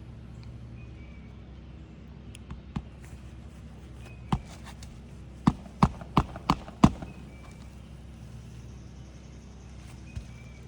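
Hammer driving roofing nails through an asphalt shingle into the roof deck: a few light taps, then five sharp strikes in quick succession, about three a second, and one more tap near the end.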